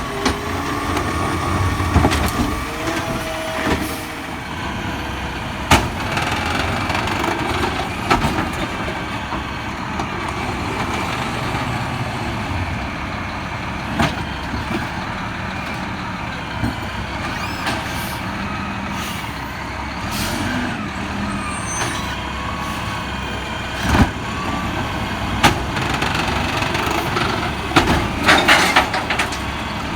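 Garbage truck at work: its engine running steadily under a thin, wavering whine, with scattered sharp bangs and knocks and a quick cluster of them near the end.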